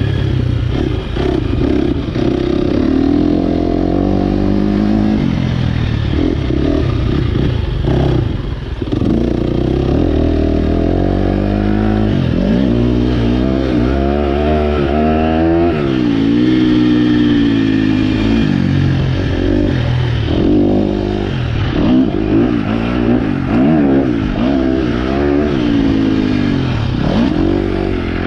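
2023 KTM 250 SX-F's single-cylinder four-stroke engine through an Akrapovic Evolution Line exhaust, revving hard under load. Its pitch climbs and drops again and again as the rider works the throttle and gears, falling away sharply about eight seconds in, again around sixteen seconds, and near the end.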